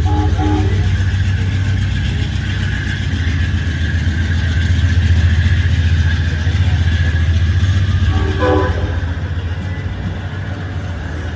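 Amtrak Northeast Regional train running through the station with a steady low rumble. A horn note ends just under a second in, and a short horn toot comes about eight and a half seconds in.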